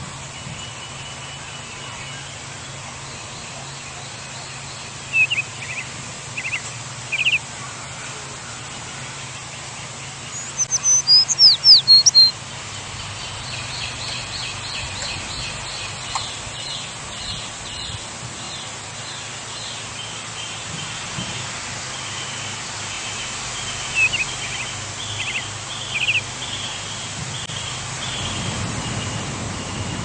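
Small birds chirping over a steady low background hum. A few short chirps come early, then a loud, quick run of sharp falling chirps about a third of the way in, followed by a string of quieter rapid repeated notes and more scattered chirps later.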